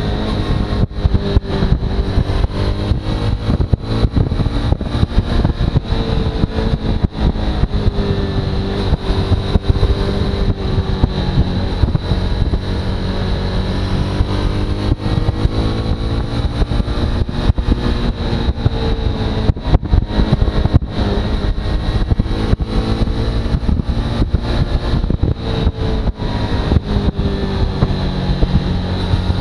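Suzuki V-Strom motorcycle under way, its engine running steadily with the pitch slowly rising and falling, under heavy wind noise on the microphone.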